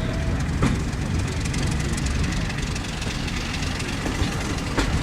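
Train running: a steady low rumble, with a sharp click under a second in and another near the end.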